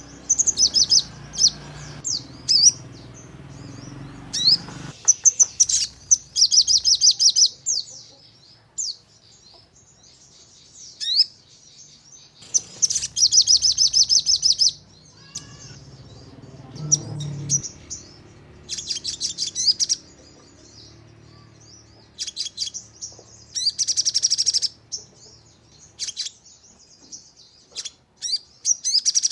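Crimson sunbird (sogon) singing: bursts of very rapid, high trilled notes lasting a second or two, about four times over, with sharp single chirps in between. These are the fast 'shooting' trills that keepers play to a caged sogon to set it singing.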